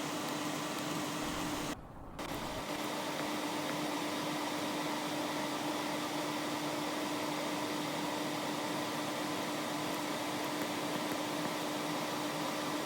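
Steady hiss with a constant low hum, dipping out for about half a second around two seconds in.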